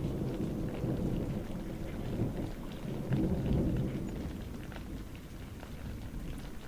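Steady rain with scattered drips and a low rolling rumble of thunder that swells over the first few seconds and then fades.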